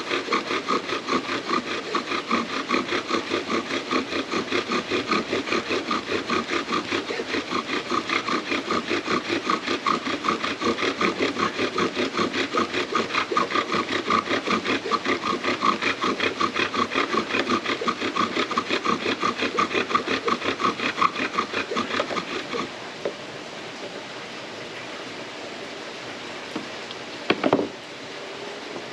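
Bow drill spindle squeaking against the wooden hearth board as the bow is sawed back and forth, a rhythmic squeal with every stroke, about three to four a second, drilling out an ember. The drilling stops about 23 seconds in; a short knock follows near the end.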